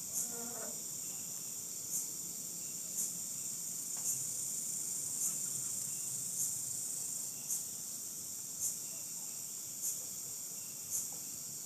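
Night insects: a steady high-pitched chorus, with a short chirp repeating about once a second.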